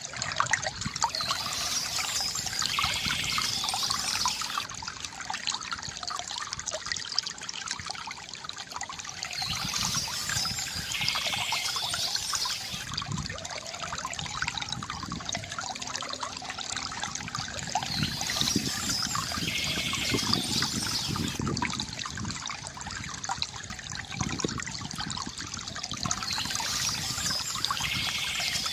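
Water trickling and gurgling steadily from a bamboo fountain, with a brighter, hissier swell coming back about every eight to nine seconds.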